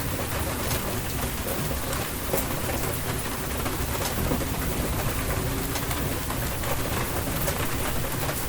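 Steady rain falling, with single drops ticking sharply over the hiss and a low rumble underneath.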